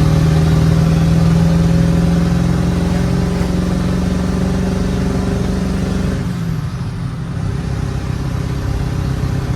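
Pickup truck engine running under load as the truck drives off. Its steady note creeps slightly higher, then breaks off about six seconds in into a rougher, lower running sound.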